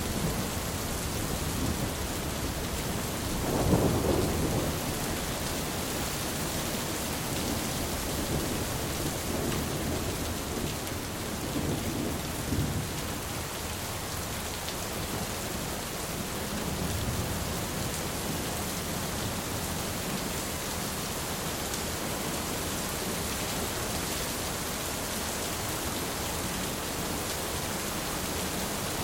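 Steady heavy rain with rolling thunder: a rumble about four seconds in, fainter rumbles around ten to thirteen seconds and again near seventeen seconds, then only the rain.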